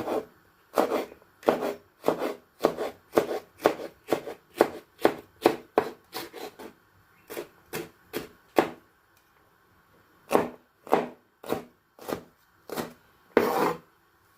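A kitchen knife chopping vegetables on a cutting board: a run of quick, even strokes about two a second, pausing twice before a last few slower cuts.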